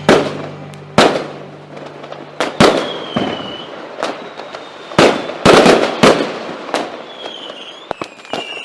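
Fireworks going off: a string of sharp bangs, irregularly spaced about a second apart, some coming in quick pairs, with whistles that fall in pitch between them.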